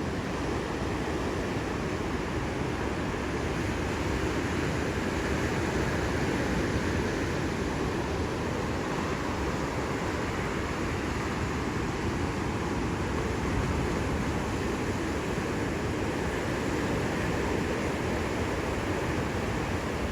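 Ocean surf: a continuous wash of waves breaking, swelling a little louder a couple of times.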